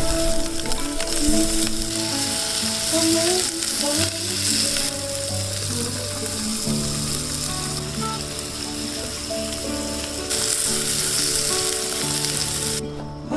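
Food sizzling and frying in a hot pan, a steady hissing crackle that cuts off suddenly near the end, with soft background music underneath.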